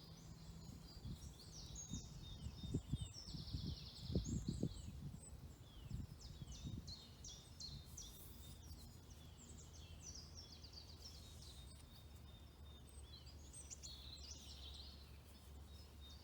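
Small songbirds chirping and singing, many short sweeping notes with a rapid trill about three seconds in. A cluster of low thumps in the first few seconds is the loudest sound.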